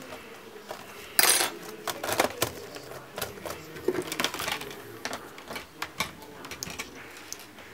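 Laptop parts and small metal tools being handled: a quick run of clicks, taps and light metallic clinks, with a louder scraping clatter about a second in.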